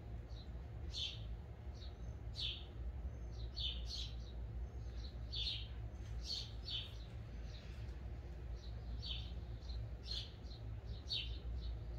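Small birds chirping in short, repeated high calls, over a steady low hum.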